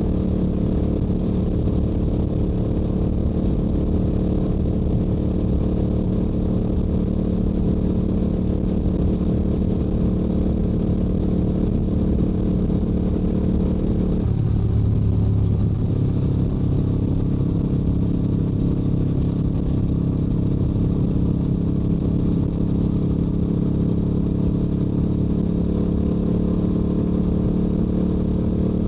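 Stock Yamaha YZF-R7 parallel-twin engine and exhaust running steadily at highway cruising speed, heard from the moving motorcycle. The engine note dips briefly about halfway through, then holds steady again.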